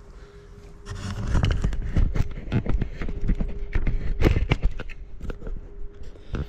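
A rapid, irregular run of wooden knocks and thuds as a large elm block is shifted and shimmed on the sawmill bed, starting about a second in, over a faint steady hum.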